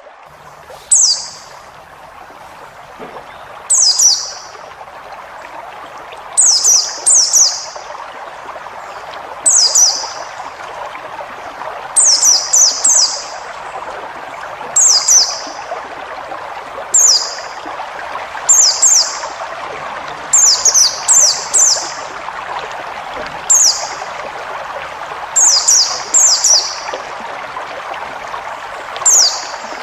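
White-eye (pleci) singing in short bursts of quick, high, falling chirps, singly or in pairs, every one to three seconds, over a steady rushing background.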